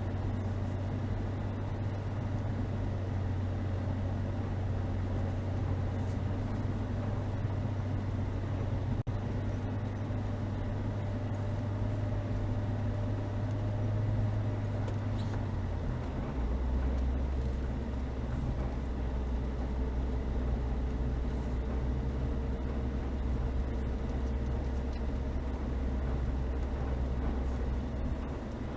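Chevrolet Niva's four-cylinder petrol engine running steadily under way as the car drives along. A little past halfway the drone drops suddenly to a lower pitch and holds there.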